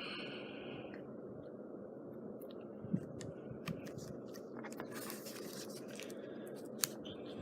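Quiet hands-on crafting noise while a turkey embellishment is hot-glued onto a burlap scrapbook page: a few small clicks and two brief scrapes of paper and glue gun being handled, over a steady low hum.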